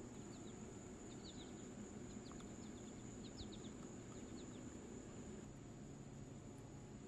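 Faint chirping of small birds: quick short high notes in a loose series for the first four or five seconds, over a steady outdoor background with a constant high hiss.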